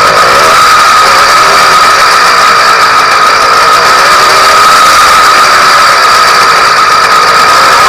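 Freshly ported YD100 two-stroke motorized-bicycle engine running at a steady, high, even speed during its first break-in run, with a rattling edge.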